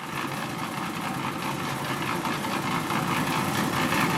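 Portable concrete mixer (molen) running steadily, its engine going with a fast, busy rattle.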